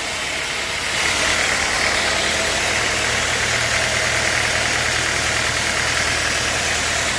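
Sawmill machinery running steadily: a low engine hum under dense mechanical noise, with a higher whine that comes in about a second in as the sound gets a little louder.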